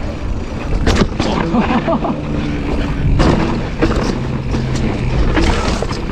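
Commencal mountain bike riding down a steep rocky trail: wind rumble on the microphone and tyres rolling over rock, with sharp knocks as the bike jolts, about a second in, around three seconds in and again near five seconds in.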